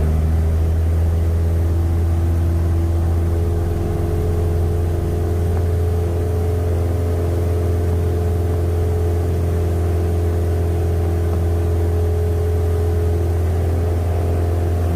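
Cessna 172's piston engine running steadily, a deep unbroken drone with a few steady higher tones and no change in power.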